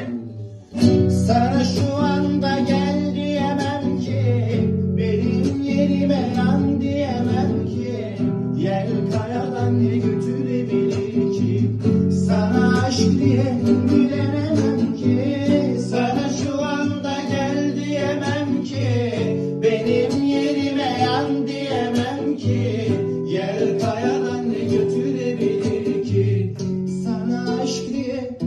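Turkish song with singing over plucked acoustic guitar.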